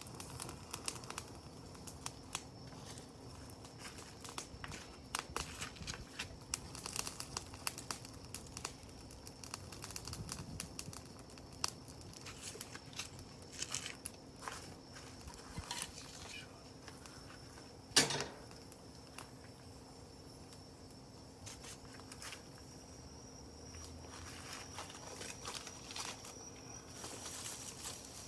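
Wood campfire crackling: irregular sharp snaps and ticks, with one much louder pop about two-thirds of the way through.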